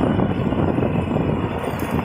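Riding noise from a motor scooter on the move: a steady, heavy wind rush over the microphone mixed with the scooter's running and road noise.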